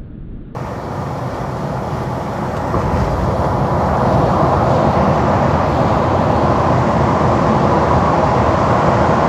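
Big-rig semi truck driving at road speed, heard from inside the cab: a steady rumble of engine and road noise. It grows louder over the first few seconds, then holds steady.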